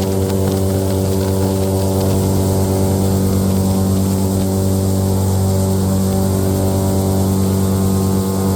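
Airboat's engine and air propeller running steadily at cruising speed, a loud even drone with a rushing hiss of wind and spray over it.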